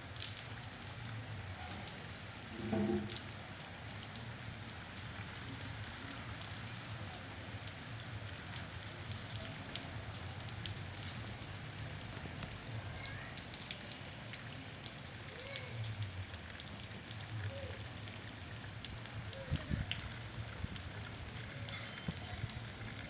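Steady rain falling, with many individual drops pattering and ticking on a surface. A brief pitched sound stands out about three seconds in.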